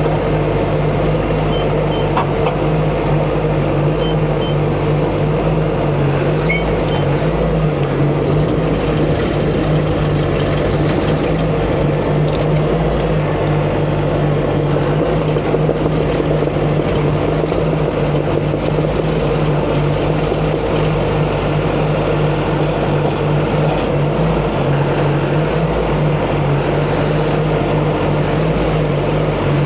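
Diesel engine of a heavy earthmoving machine running steadily under load while working to free a stuck haul truck, its pitch wavering slightly.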